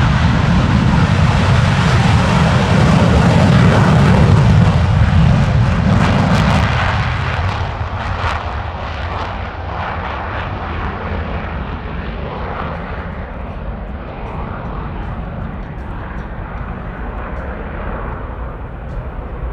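RCAF CF-18 Hornet's twin General Electric F404 turbofan jet engines at takeoff power as it departs. The noise is loudest about four seconds in, then fades steadily as the high end drops away and the jet recedes, leaving a lower rumble.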